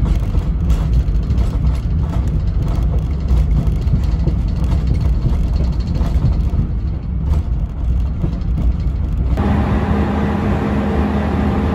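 Passenger train running, heard from inside the carriage: a steady heavy low rumble with faint knocks. About nine seconds in, the sound changes abruptly to a different steady rumble with a low hum.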